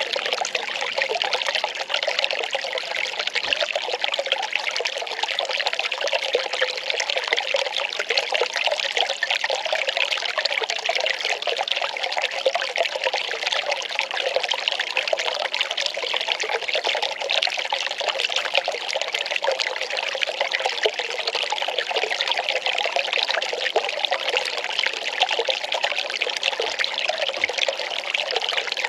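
Well water pouring and trickling steadily, a continuous splash with no breaks.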